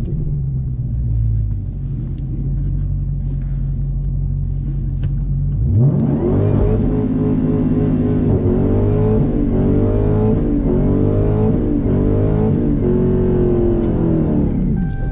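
Car engine idling steadily, then revved up sharply about six seconds in and held at high revs with a wavering pitch for about eight seconds before dropping back near the end.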